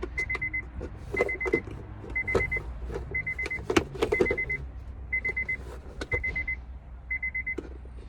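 An electronic beeper sounding quick runs of four or five high pips, the runs coming about once a second. Over it come sharp clicks and knocks of hand tools and a clamp working small metal pins out of a plastic console part.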